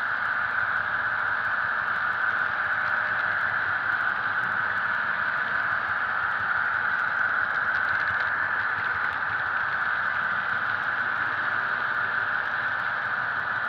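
HO-scale model train running along the track, a steady even whirring rush of wheels and motors with a few faint clicks.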